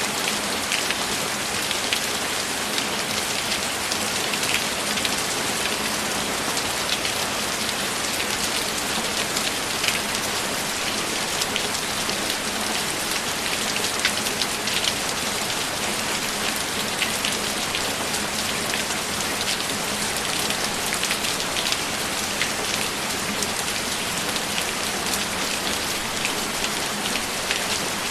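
Steady rain falling on a surface, with many small drop ticks scattered through an even hiss.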